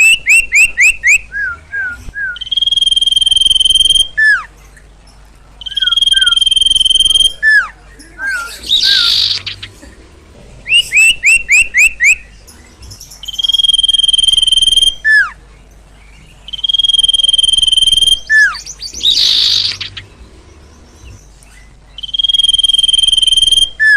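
Sirtu bird calling vigorously in a repeating sequence: a quick run of falling whistled notes, then a long, steady, high whistle held for over a second, and a harsh rasping note. The same phrase comes round about every ten seconds.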